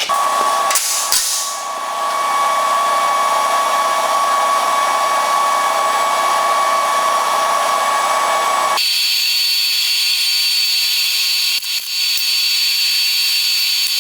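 Electric power tool running steadily with a motor whine. A couple of knocks come about a second in. About nine seconds in, the sound changes abruptly to a higher-pitched whine.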